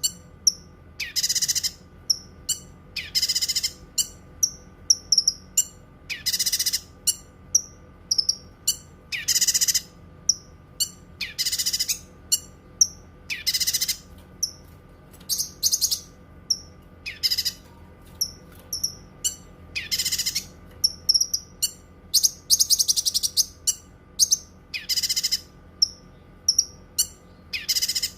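A cucak kinoi singing: short, loud, high phrases under a second long repeated about every two seconds, with quick high chirps in between.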